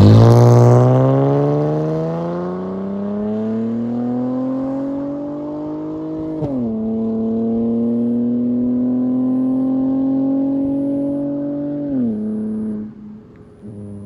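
Holden VZ Commodore SV6's LY7 Alloytec V6 through a 2.5-inch Hurricane catback exhaust with centre mufflers and no rear mufflers, accelerating hard away. It is loudest at the start, its pitch climbs through one gear, drops at an upshift about six and a half seconds in, climbs again, and drops at a second upshift near the end before fading out.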